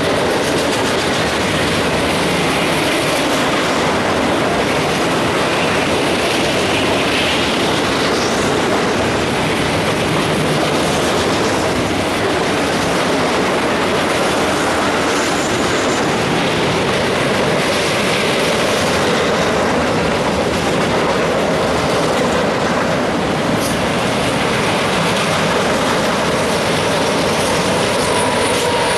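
A Norfolk Southern freight train of empty open-top gondola cars rolling past, with steady wheel and rail noise and clickety-clack. Near the end, a steady high whine joins in as the locomotives come up behind the cars.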